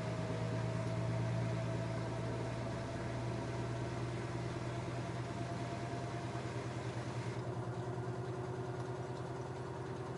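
LG F10A8HDS5 direct-drive front-loading washing machine running mid-cycle: a steady low hum under a motor whine that slowly falls in pitch and fades about seven seconds in, while a lower tone rises and a faint even pulsing sets in.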